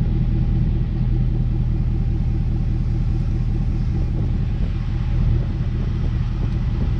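A vehicle engine idling steadily, an even low rumble with no change in speed.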